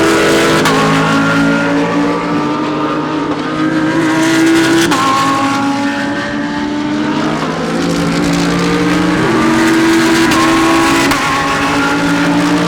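GT3 race cars running at racing speed, several engines overlapping. Their pitch climbs and then drops sharply at gear changes a few times.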